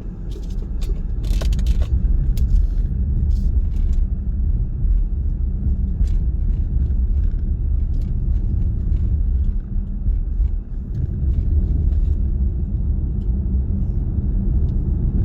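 Car driving at speed: a steady low rumble of road and engine noise, with scattered faint ticks and a brief hiss about a second in.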